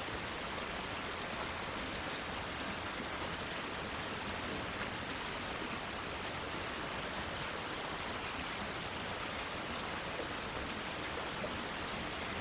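Steady rain falling on leaves and plants, an even hiss with fine patter of drops.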